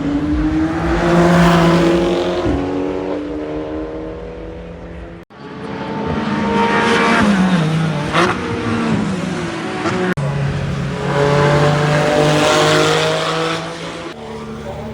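Heavily muffled GT race car engines passing at speed, one after another. Each pass rises and then falls in pitch, and two abrupt cuts join the passes.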